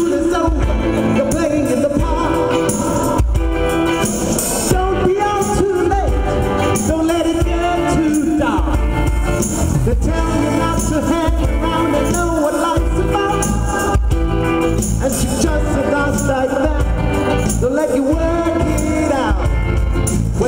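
A cover band playing a song live, with a lead singer over the band's accompaniment and a steady, heavy bass.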